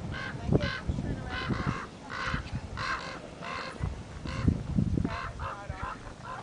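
A bird honking in a rapid series of about a dozen short calls, over low rumbling thuds.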